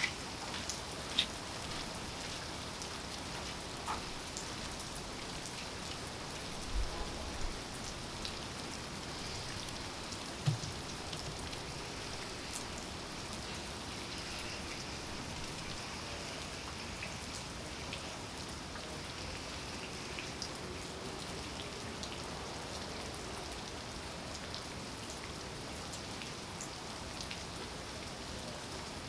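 Steady rain falling, an even hiss with a few louder single drops and soft knocks standing out now and then, mostly in the first half.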